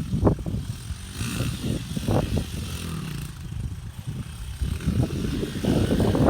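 Pit bike engine running and revving, loudest at the start and again near the end, easing off in between.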